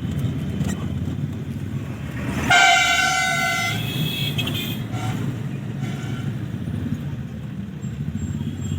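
Steady low engine and road noise of a car on the move, with one horn blast of just over a second about two and a half seconds in, the loudest sound here.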